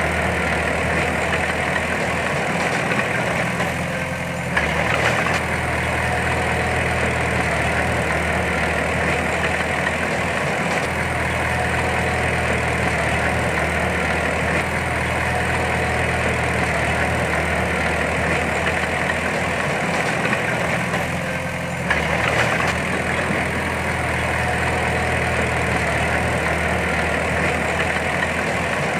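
Heavy earthmoving machine's diesel engine running steadily. Its note shifts and briefly gets louder about four and a half seconds in and again a little past twenty seconds, as the engine takes load.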